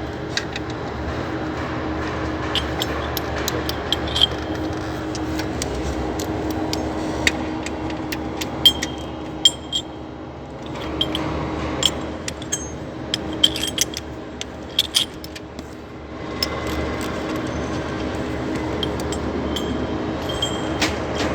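Car engine running steadily, with irregular light metallic clicks and clinks over it. The noise is one the mechanic hopes comes from the alternator rather than the VVT-i cam gear.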